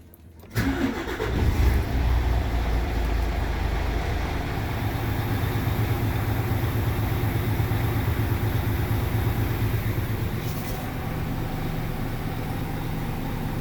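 Scania P410 truck's diesel engine starting about half a second in, then idling steadily.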